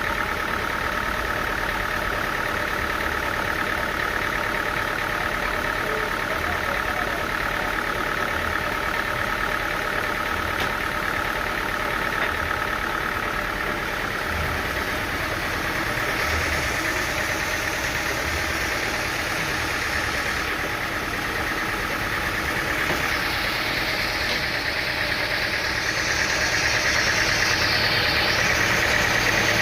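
Sawmill machinery running steadily with an engine-like drone. A hissing, higher-pitched noise joins about halfway through and grows louder near the end.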